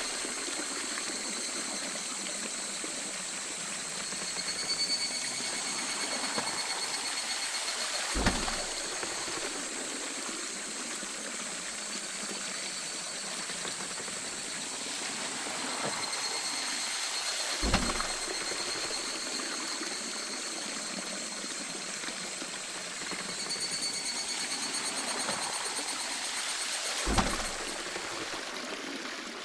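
Water flowing and splashing at a traditional waterwheel, with a low knock about every nine to ten seconds, three times. A faint high steady whine fades in and out over the top.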